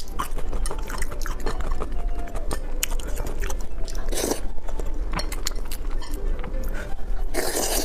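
Close-miked eating of spicy pig brain: wet chewing with many small lip smacks and mouth clicks. Two louder, longer mouth noises come about four seconds in and near the end.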